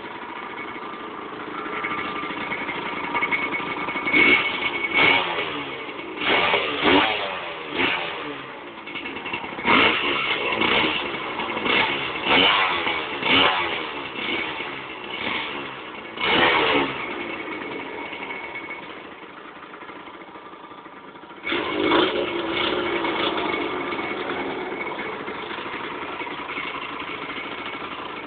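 Aprilia MX 125's single-cylinder two-stroke engine on its stock exhaust, idling and then blipped up about a dozen times in quick succession. It drops to a low idle, gets one more rev, and settles back to a steady idle.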